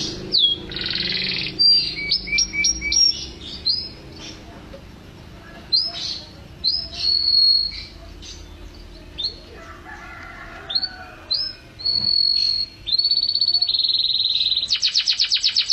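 Domestic canary singing: a run of short, high sweeping chirps and held whistled notes, breaking into a fast, even trill near the end.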